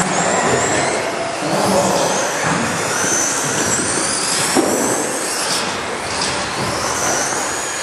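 Radio-controlled stadium trucks racing, their motors whining high and rising and falling in pitch as they speed up and slow down, with a sharp knock about four and a half seconds in.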